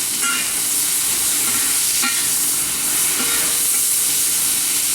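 Chicken pieces sizzling steadily in a very hot carbon steel wok, with a few light spatula strokes against the pan.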